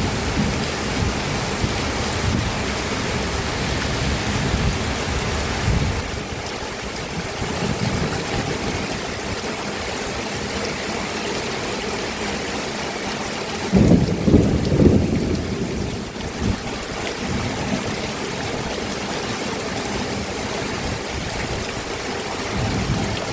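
Steady heavy rain, with thunder rumbling low underneath. The thunder swells into its loudest roll a little past the middle.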